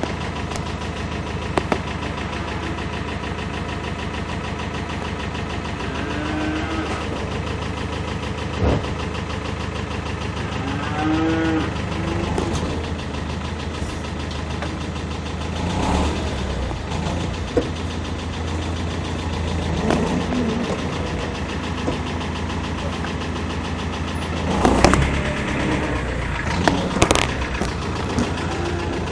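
Diesel tractor engine idling steadily. Cattle moo a couple of times, and a few sharp knocks come near the end.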